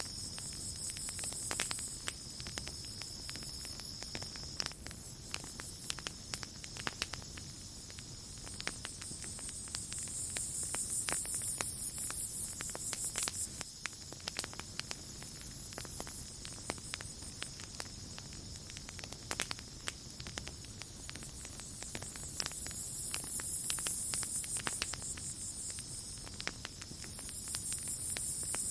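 Campfire crackling with irregular pops and snaps over a chorus of night insects. A steady high cricket trill runs throughout, and a still higher insect buzz swells up and fades away three or four times.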